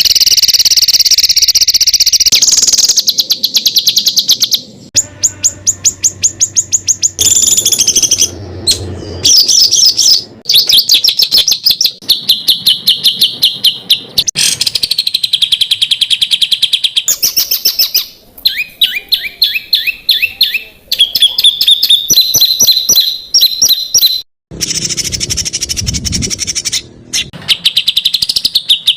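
Songbird song for training competition birds: loud, rapid strings of sharp repeated notes and trills, switching abruptly from one phrase or bird to another several times.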